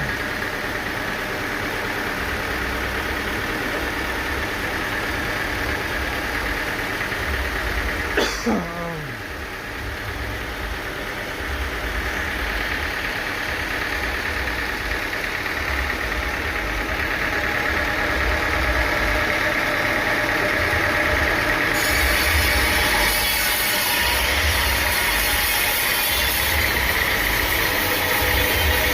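Sawmill engine running steadily. About eight seconds in a short sweep drops sharply in pitch and the sound dips briefly. From about two-thirds of the way through a hiss joins in and the running grows a little louder.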